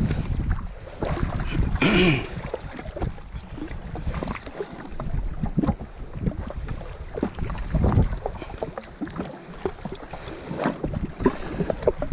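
Wind buffeting the microphone and water slapping and splashing around a jetski, in uneven gusts and knocks. A short pitched sound about two seconds in.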